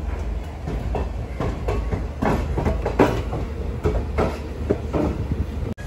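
Moving passenger train of old ICF coaches running on the rails: a steady low rumble with irregular wheel clicks and knocks over the track.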